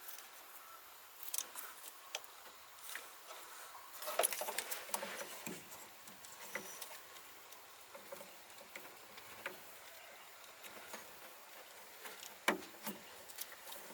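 Scattered light clicks and knocks of tools and metal parts being handled during repair work, busiest about four seconds in, with one sharper knock near the end.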